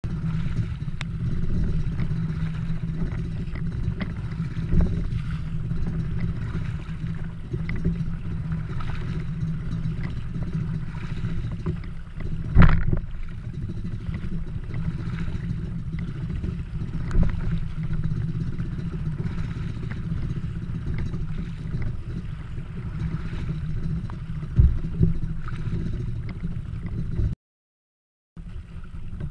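Strong wind rumbling over the microphone while a kayak is paddled, with water sloshing and a few sharp knocks. The sound cuts out for about a second near the end.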